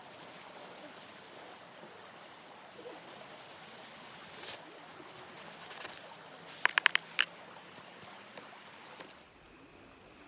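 Steady faint hiss with a thin high whine over it, broken by a few sharp clicks and a quick run of four or five clicks about seven seconds in.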